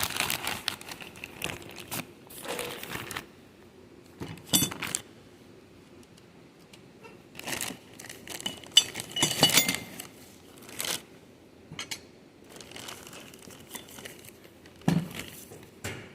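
Plastic packaging crinkling and rustling in irregular bursts, with a few light knocks, as new engine mounts are handled and unwrapped.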